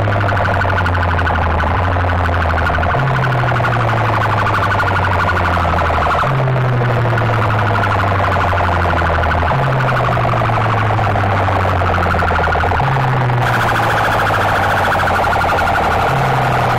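DJ competition music blasted through large speaker boxes: a fast-pulsing, alarm-like synth buzz over deep bass notes that step down in pitch, the pattern repeating about every three seconds.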